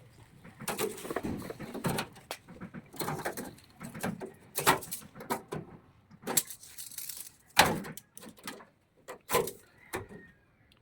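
Irregular knocks, clicks and short scrapes from handling and working on a washing machine whose body is badly damaged, with the sharpest knocks about five, eight and nine seconds in.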